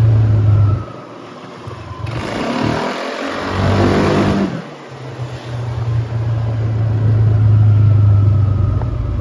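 Kymco KRV 180 scooter being ridden, its single-cylinder engine pulling under throttle, with the engine note easing off twice and a rush of noise around the middle as it speeds up.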